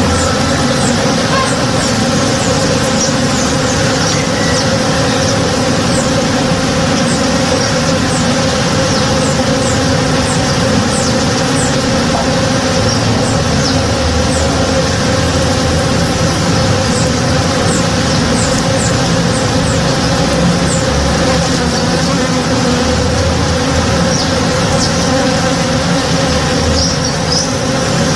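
Steady, dense buzzing of many honey bees foraging on a blossoming tree: a continuous layered hum. Short high chirps are scattered through it.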